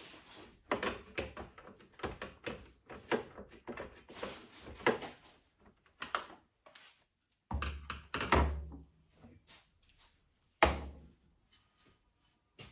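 Parts of a DeLonghi ESAM 5600 coffee machine being handled during repair: a string of clicks and knocks, with three heavier thunks about two-thirds of the way in.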